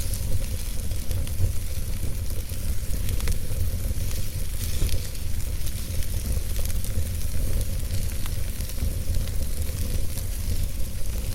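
Wood fire burning in a fireplace, with scattered irregular crackles and pops over a steady low rumble.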